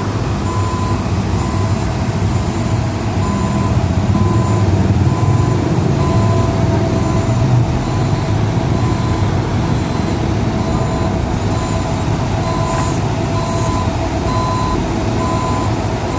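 Heavy road-works vehicle's engine running with a low rumble, while its reversing alarm beeps steadily at an even pace, about three beeps every two seconds.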